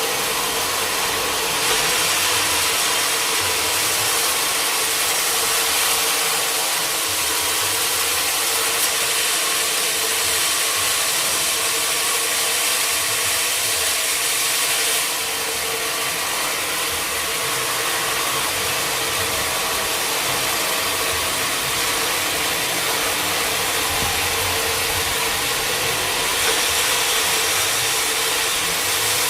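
Sawmill machinery running steadily: a constant hum under a loud high hiss, a little louder about two seconds in and slightly quieter from about halfway through.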